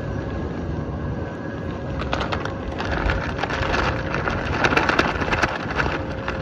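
Nylon tracksuit fabric flapping and snapping rapidly in strong gusting wind, over wind rumbling on the microphone. The flapping picks up about two seconds in, is loudest in the middle and eases near the end.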